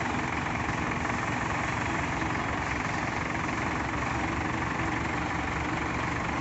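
Heavy diesel engine idling steadily, with an even low throb.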